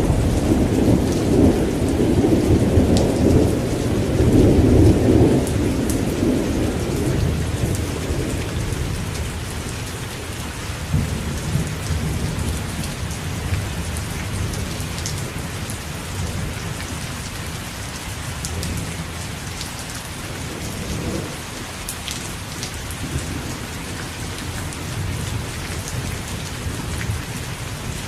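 Steady heavy rain falling, with a long rolling rumble of thunder that fades away over the first several seconds; fainter distant rumbles return later.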